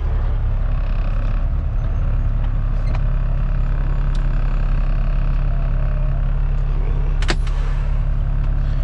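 Kenworth T660 semi truck's diesel engine running steadily with a low, even rumble. One sharp click about seven seconds in.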